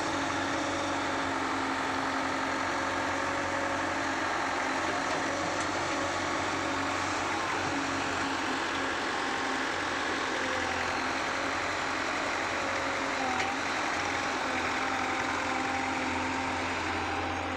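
Engine of heavy construction machinery running steadily at a constant speed, with an even low hum.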